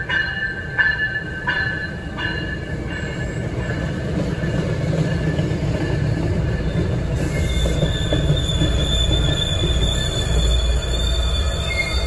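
MBTA commuter train rumbling past on the rails, cab car first. Its bell rings about twice a second and stops about two seconds in. A steady high wheel squeal starts about seven seconds in and carries on.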